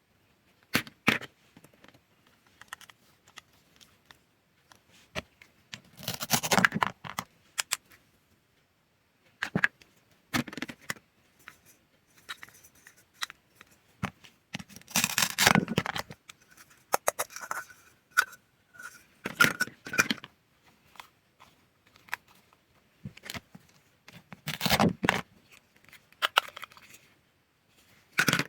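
Cutting sounds: a blade working through food, with scattered clicks and scrapes and three louder, longer cutting strokes, about a quarter, half and nine-tenths of the way through.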